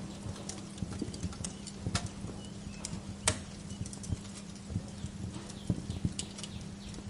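Wood fire crackling in a fireplace: irregular snaps and pops, the sharpest about three seconds in, over a low steady hum.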